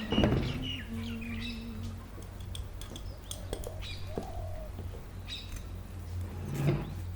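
Small birds chirping in short, downward-gliding chirps over a steady low hum, with a brief louder noise at the start and another near the end.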